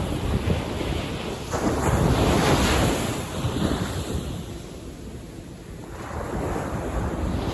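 Sea waves breaking and washing on a beach. One wave swells and crashes about two seconds in, then drains away to a softer hiss before the next surge builds near the end.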